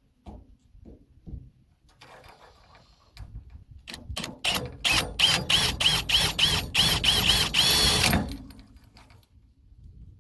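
Power drill running in quick pulses into the metal of a truck cargo bed, its motor whine dipping and picking up again about three times a second, then held steady briefly before stopping.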